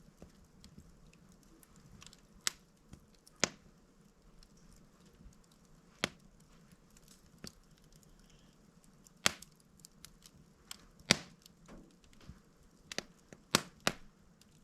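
A log burning in a fireplace, crackling: sharp, irregular pops every second or two over a faint steady hiss, with a cluster of pops near the end.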